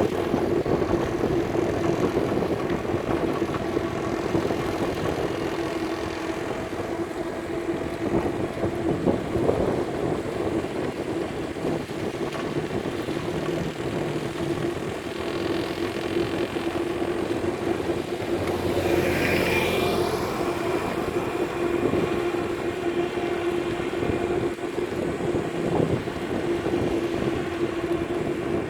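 Road traffic with motor vehicle engines running, heard from a moving bicycle, with a steady engine tone throughout. A louder vehicle passes about nineteen seconds in.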